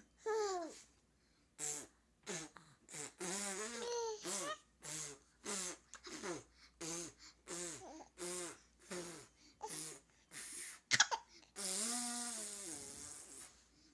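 A woman making a string of short, silly vocal noises, raspberry-like and breathy, about one or two a second, with a sharp pop about eleven seconds in and a longer sound falling in pitch near the end.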